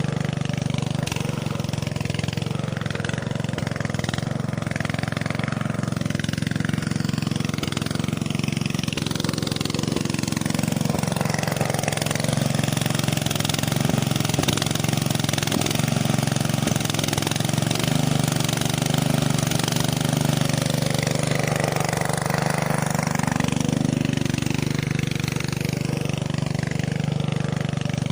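A small motor running steadily with a constant low hum.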